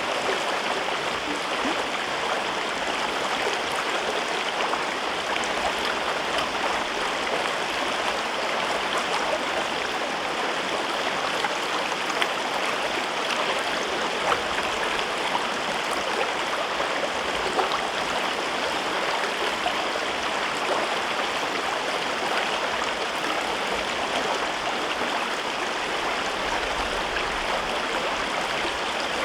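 River water rushing and babbling over rocks in a gorge, a steady dense flow with small splashes scattered through it.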